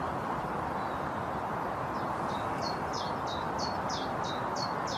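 A small bird singing a rapid series of short, high, downward-slurred chirps, about three a second, starting about two seconds in, over a steady outdoor background hiss.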